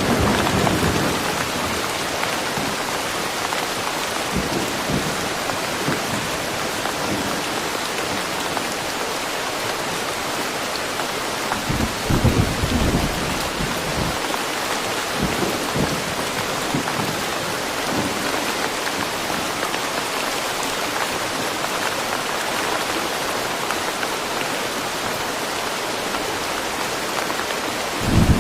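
Steady, dense rainfall in woodland, with a few brief low rumbles rising out of it: one near the start, the strongest about twelve seconds in, and another at the end.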